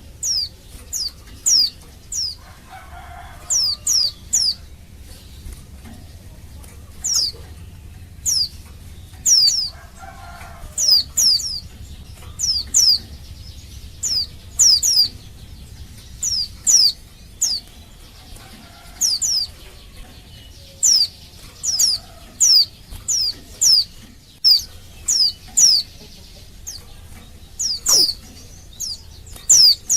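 A female white-eye (pleci) calling to males: short, high, sharply falling call notes, given singly or in quick pairs and triplets, over and over about once a second.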